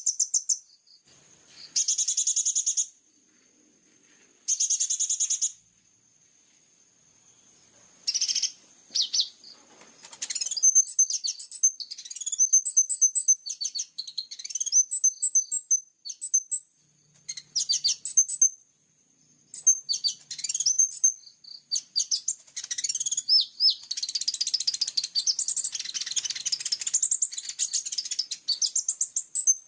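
Sunbird (kolibri ninja) singing vigorously: sharp, high-pitched bursts of song and rapid ticking trills, in separate phrases at first and almost unbroken over the last third.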